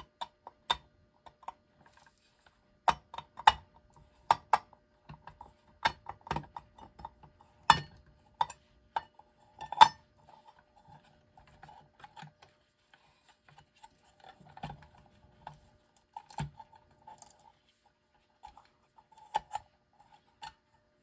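Irregular metallic clinks and clicks as a small electric clock movement and its loose metal parts are handled and worked free. The clinks come thickest in the first half, with the loudest about ten seconds in, and thin out later.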